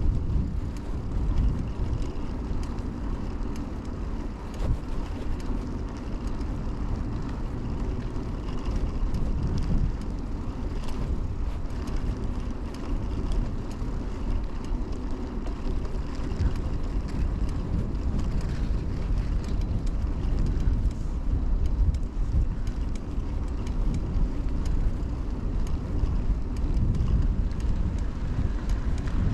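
Steady low rumble of riding noise from a 2000 Kona Blast mountain bike on the move, with wind on a chest-mounted action camera's microphone; no single event stands out.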